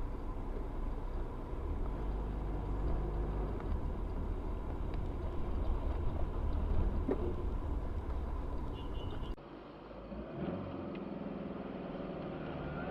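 Car driving along: a steady low engine and road rumble, with a cut about nine seconds in to another recording of similar, quieter road noise.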